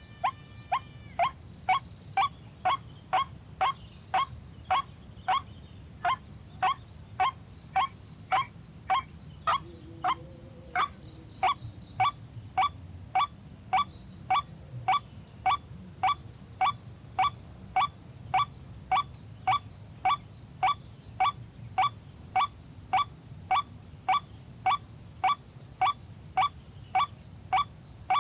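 White-breasted waterhen (ruak-ruak) calls: a short call repeated at a very even pace, about twice a second, without a break.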